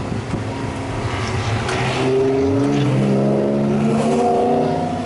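Car engines heard from inside a Honda S2000's cabin while other track cars pass. For the first two seconds there is mostly a rough noise. About two seconds in, an engine note rises quickly, then holds and climbs slowly.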